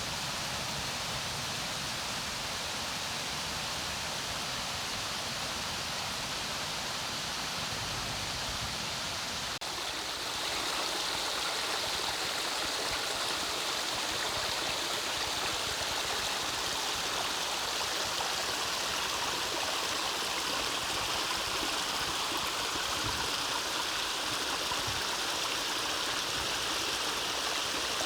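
Forest mountain stream, water running and splashing steadily over rocks. About ten seconds in it changes to a louder, brighter rush of water.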